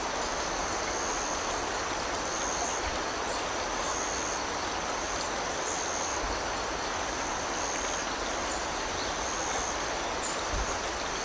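Creek water flowing over rocks with a steady rush, under a continuous high-pitched trill of autumn insects that swells about once a second.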